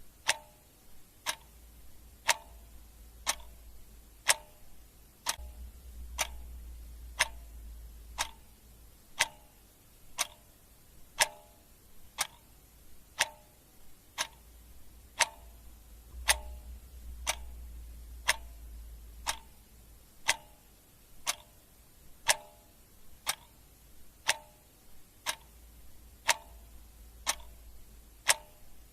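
A clock ticking steadily, one sharp tick each second, each tick with a short ring. A faint low rumble comes and goes underneath.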